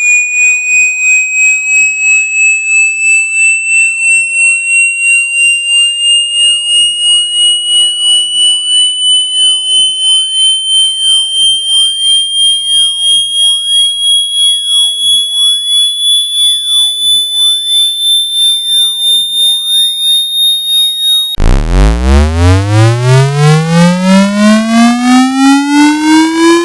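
Electronic water-ejection tone for a phone speaker or charging port. A pure high tone pulses a couple of times a second and glides slowly upward. Near the end it switches suddenly to a louder, buzzy tone sweeping up fast from a deep rumble.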